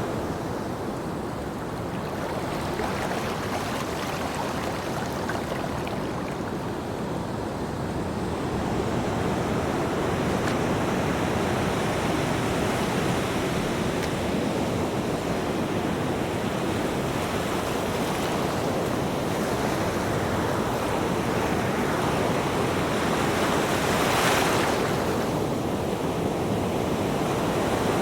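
Ocean waves breaking and washing on a shore in a continuous surf roar. The wash swells slowly, with a brighter, hissier wave crash about 24 seconds in.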